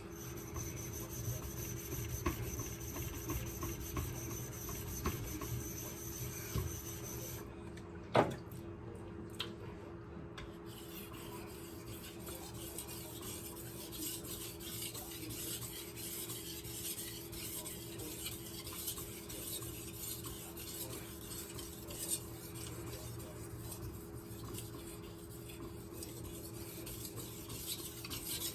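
A kitchen knife blade stroked back and forth on a wet Cerax 5000-grit whetstone, a steady wet scraping rub as a slurry is worked up for polishing the edge. One sharp knock about eight seconds in.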